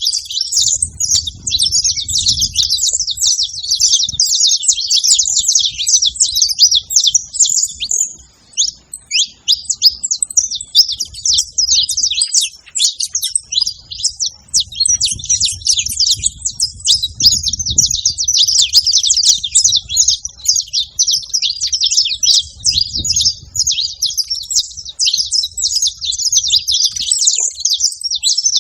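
A flock of saffron finches chirping together: a dense, unbroken chatter of many overlapping high chirps.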